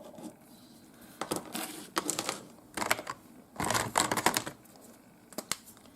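Small hard craft supplies clattering and clicking as they are handled on a table, in several short flurries of rapid clicks with quiet gaps between.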